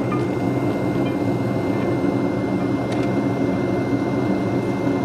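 Steady mechanical hum of a running machine, even throughout, with a thin high tone above it and a few faint clicks.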